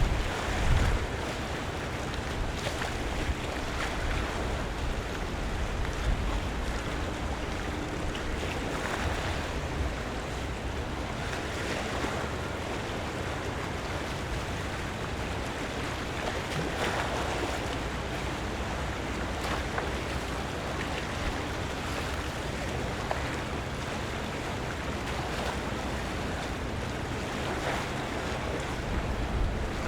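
Harbour water lapping at the waterfront, with a splash every few seconds over a steady low rumble and some wind on the microphone.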